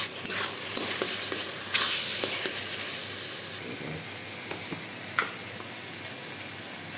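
Onion-tomato masala sizzling steadily as it fries in a kadai, stirred by a metal spatula that scrapes the pan a few times, most strongly in the first two seconds.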